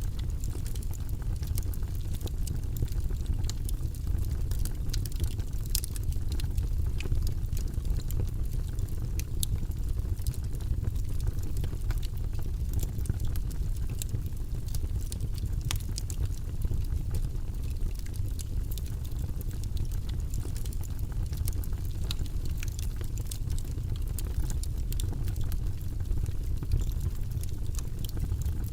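Logs burning in a fireplace: a steady low rumble of the fire with many scattered sharp crackles and pops.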